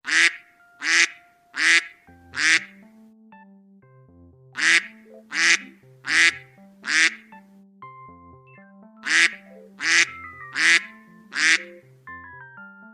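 Duck quacking in three runs of four loud quacks, each run about three seconds long, over light background music with a simple stepping melody and bass.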